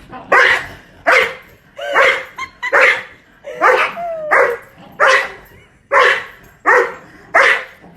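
A dog barking over and over in a steady rhythm, about ten short, sharp barks, roughly one every three-quarters of a second.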